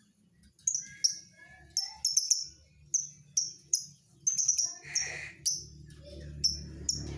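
Lovebird chirping: a rapid series of short, sharp, high-pitched chirps that starts about half a second in and keeps going in irregular clusters.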